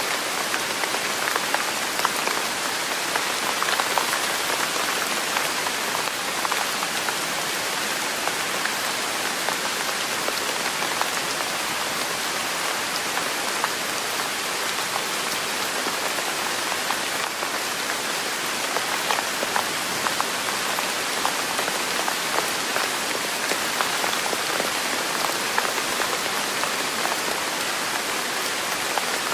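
Steady rain falling, an even hiss dotted with countless small drop ticks.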